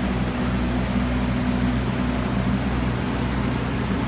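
A steady low mechanical hum over a constant rush of noise, unchanging throughout.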